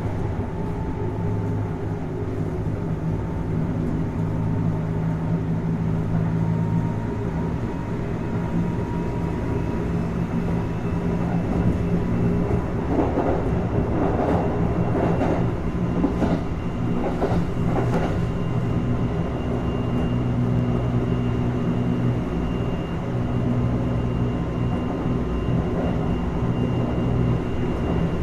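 Kintetsu 1220 series electric train running at steady speed, heard inside motor car Mo 1221: a steady hum from the traction motors and gearing under the floor. About halfway through comes a run of wheel knocks over rail joints.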